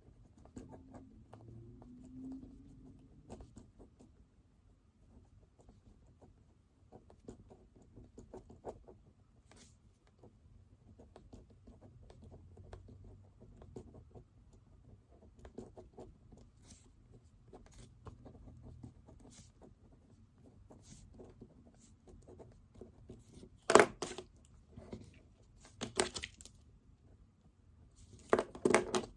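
Pen writing on paper, with soft irregular scratches and small taps. In the last few seconds there is a sharp knock, then two louder clattering bursts of something handled on the desk.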